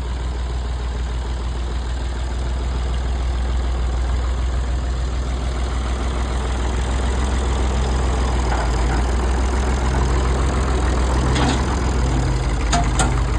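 Mid-1960s farm tractor engine running steadily at a low, even hum, with a few sharp clicks near the end.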